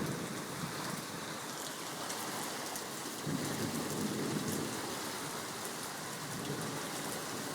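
Heavy rain pouring down steadily, with a low rumble of distant thunder swelling about three seconds in.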